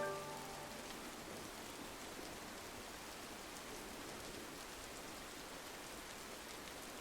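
Steady rain on a window pane: an even, soft hiss of drops with no change in intensity.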